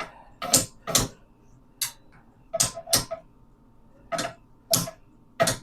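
A series of short, sharp knocks, about nine of them, irregularly spaced and some coming in quick pairs.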